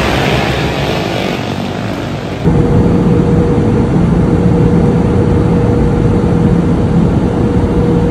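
Steady airliner cabin drone with a constant low hum, starting abruptly about two and a half seconds in, after a different rumbling noise cuts off.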